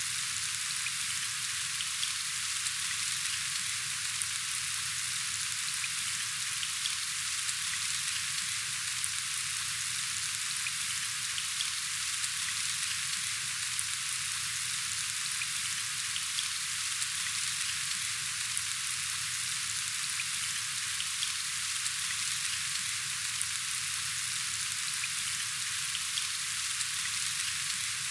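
Steady rain falling: a dense, even hiss of drops with small ticks scattered through it.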